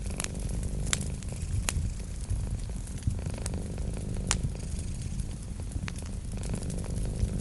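Wood fire crackling in a fireplace, with sharp pops every second or two, over a cat's steady low purr.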